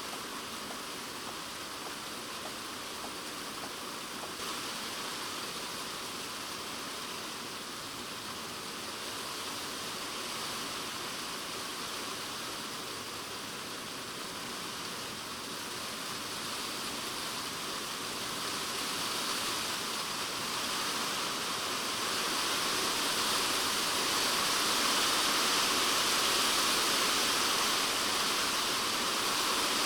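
Typhoon rain drumming on a polycarbonate shed roof, heard from inside the shed as a dense, even hiss. It grows heavier over the second half.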